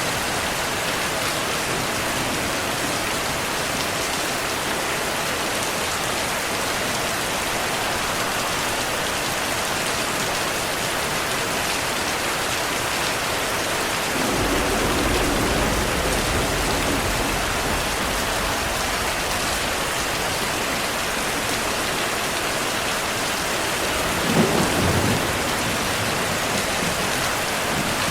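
Heavy rain falling in a steady hiss. About halfway through, a low rumble of thunder rolls in and lasts several seconds. Near the end comes a sharper, louder clap of thunder.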